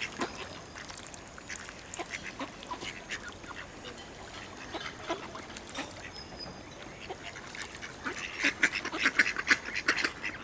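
A flock of ducks quacking in short, scattered calls, growing busier and louder near the end as more ducks gather to be fed.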